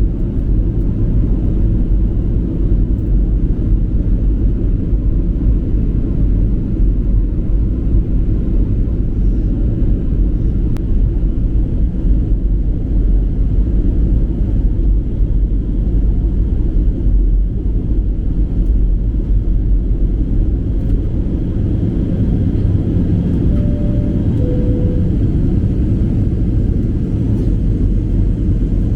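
Steady cabin rumble of a Boeing 737-800 in flight, its CFM56 engines and rushing air making an even, low roar. Near the end comes a short two-note chime, the second note lower.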